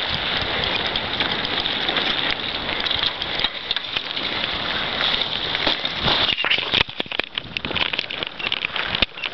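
Bicycle tyres rolling over rough, loose ground: a steady crackling hiss, with scattered clicks and knocks from about six seconds in.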